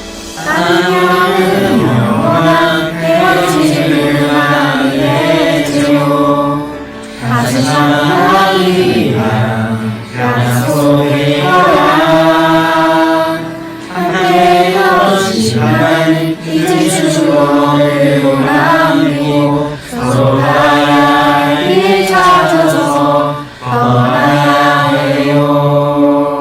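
Voices singing a song in phrases a couple of seconds long, with short breaks between phrases.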